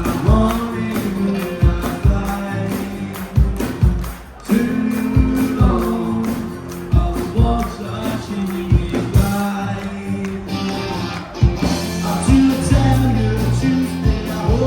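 A rock band playing live with singing over a steady drum beat. The music dips briefly about four seconds in.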